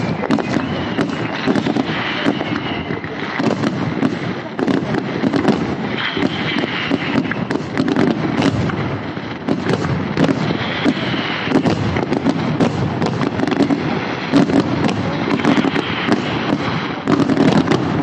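Fireworks display: a rapid, unbroken barrage of aerial shell bursts and crackling, with high whistles rising and falling now and then.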